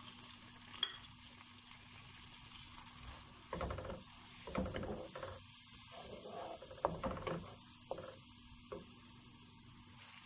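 Chopped tomatoes and ground spices sizzling in hot oil in a non-stick kadai as the masala is sautéed (bhuna). A spatula stirs and scrapes through it in a few strokes, mostly between about three and a half and seven seconds in.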